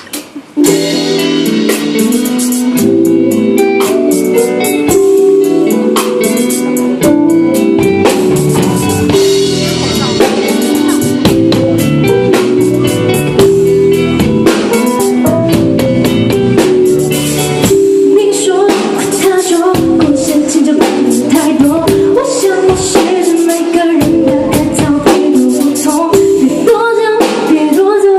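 Live band playing a song: drum kit and guitar come in together about half a second in, with a woman singing over them.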